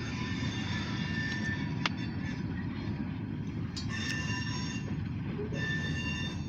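Short freight train rolling past with a steady low rumble. High-pitched wheel squeal comes and goes three times, with a single sharp click about two seconds in.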